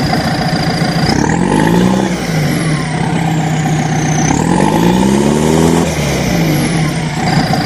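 Tractor engine running and revving up and back down twice, over a steady dense drone.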